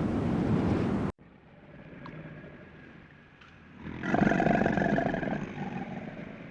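Steady rushing noise that cuts off abruptly about a second in. After a quiet stretch, an animal gives one long, drawn-out call that starts suddenly and fades.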